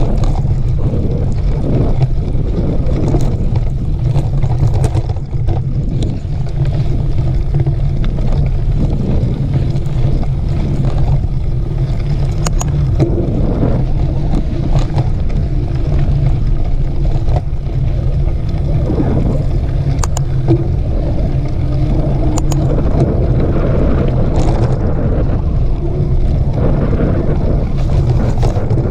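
Mountain bike being ridden on a dirt trail: a steady rumble of wind on the microphone and tyres on dirt, with a few scattered clicks and rattles.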